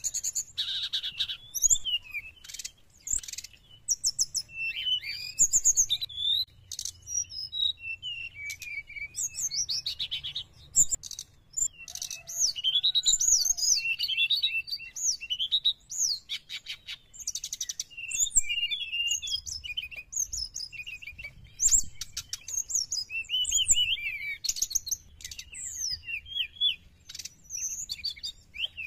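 Brown-chested jungle flycatcher singing: a fast, varied run of whistles, chirps and rattling trills in short phrases with brief pauses.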